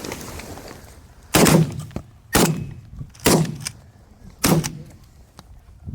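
Four shotgun shots, each a sharp crack with a short echoing tail, about a second apart.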